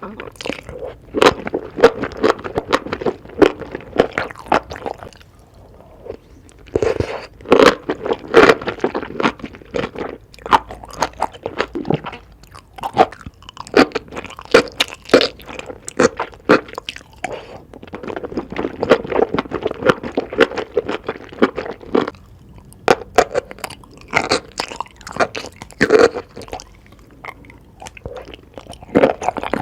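Close-miked eating: crunchy bites and chewing in quick, irregular crackling runs with short pauses between mouthfuls.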